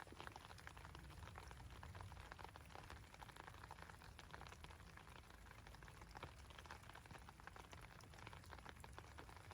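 Light rain falling: a faint, dense, even patter of drops.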